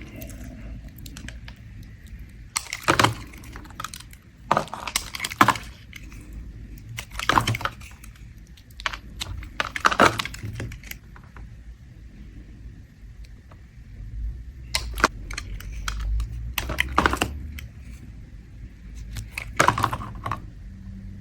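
A bar of soap scraped with a blade in short, crisp strokes, about seven of them a second or more apart, with quieter pauses between.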